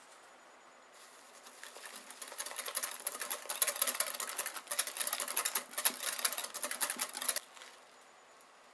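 Hand whisk beating custard cream in a bowl: rapid, dense clicking that starts about a second in, grows louder, and stops suddenly near the end.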